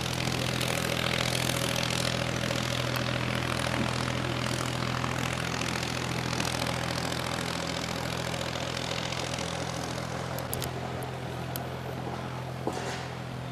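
An engine running steadily with a low hum under a rushing noise that slowly fades, with a couple of sharp clicks near the end.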